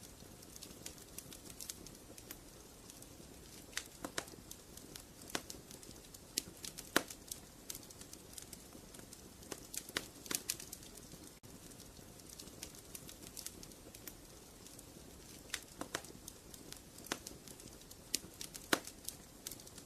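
Wood fire crackling in a fireplace: a soft steady hiss of burning with frequent irregular sharp pops and snaps, a few louder ones scattered through.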